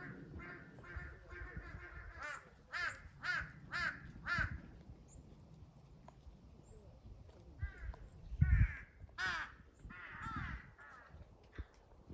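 Several crows cawing, a quick run of harsh caws in the first few seconds and another cluster later on. A low thump about eight seconds in is the loudest sound.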